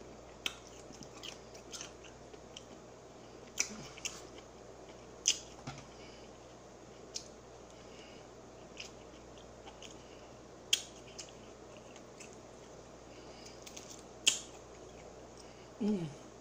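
Close-up chewing and mouth sounds of someone eating fried chicken by hand: scattered sharp wet clicks and smacks a second or few apart, with a short falling vocal hum near the end.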